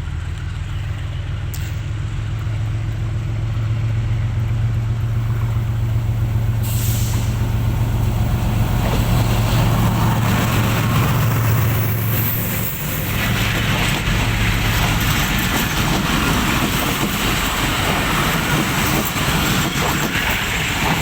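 Tezgam Express train: a diesel locomotive engine running with a steady hum and a short burst of air hiss about six seconds in. From about thirteen seconds a rougher, broader rail noise takes over as the engine hum fades.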